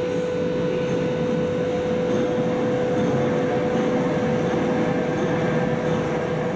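Heavy machinery running steadily: a dense, even mechanical noise with one constant humming tone above it.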